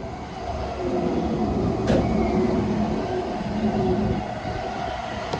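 E235-1000 series electric train running along the track: a steady rumble of wheels on rail with a hum of several steady motor tones, growing louder about a second in. A single sharp click about two seconds in.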